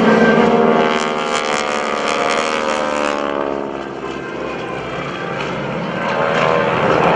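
Low passes by North American SNJ-2 trainers, their 600-horsepower Pratt & Whitney radial engines and propellers loud, with the engine note falling in pitch as they go by. The sound fades a little midway and swells again near the end as another aircraft comes through.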